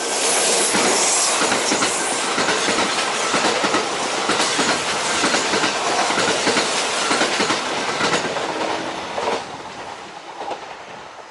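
Kintetsu electric train running close past a station platform, its wheels clattering over the rail joints. The noise dies away about nine seconds in.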